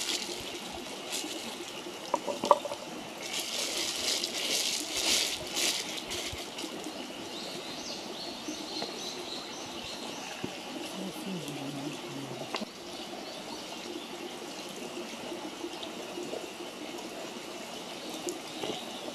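Wood campfire burning with a steady hiss and occasional sharp pops and crackles, the loudest pops a couple of seconds in.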